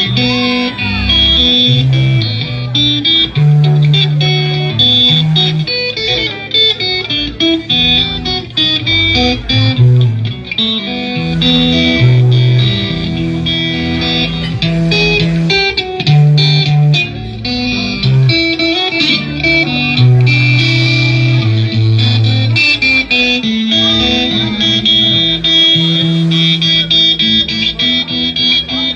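Blues guitar playing an instrumental passage: a plucked guitar line over a moving bass, with no singing.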